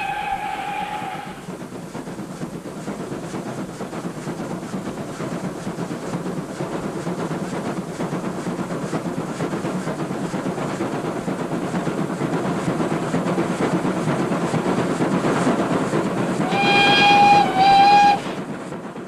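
Train running on rails with a steady rumble and faint clickety-clack of the wheels, slowly growing louder. A single-pitched warning blast dies away about a second in, and near the end the train sounds two loud blasts back to back before the sound cuts off.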